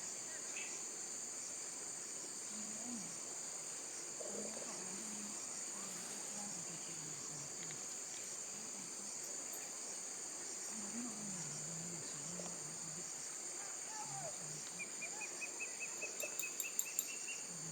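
Steady insect chorus, a continuous high-pitched drone in several bands. Faint low voices murmur in the background, and near the end a quick run of short chirps rises slightly in pitch.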